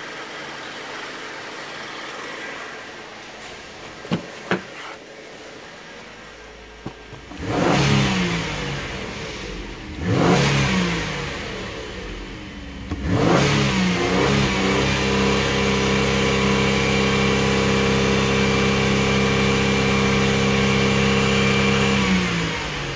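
2008 Holden Commodore's 3.6-litre V6 running in free rev: after two sharp clicks, the engine comes in about a third of the way through, is blipped twice with the revs falling back each time, then is held at a steady raised speed of about 3000 rpm for several seconds before dropping back near the end.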